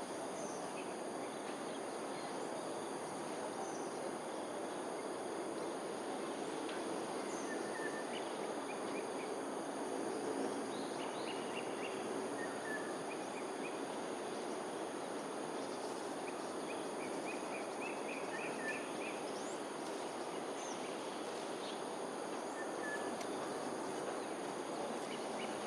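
Outdoor ambience: a steady high insect drone with scattered short bird chirps, some in quick runs, over a steady low hiss.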